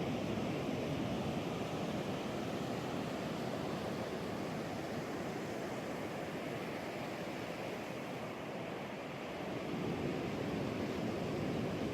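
Ocean surf breaking and washing on a beach, a steady rush that eases a little and swells again near the end.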